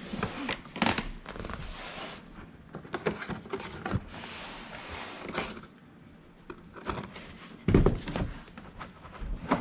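Cardboard retail box being handled and turned over: rustling, light knocks and scrapes, then a heavier thump about eight seconds in.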